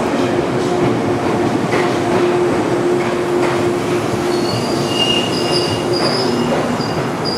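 JNR 485 series limited express electric train rolling slowly along a station platform: a steady rumble and hum of the passing cars, with high-pitched squeals that come and go from about halfway through.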